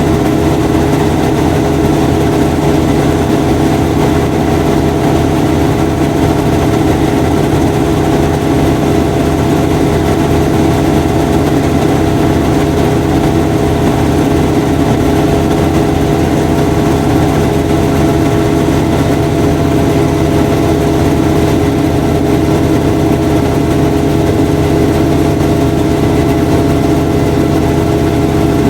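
Washing machine running, a steady loud motor hum with a constant whine layered over it, unchanging throughout.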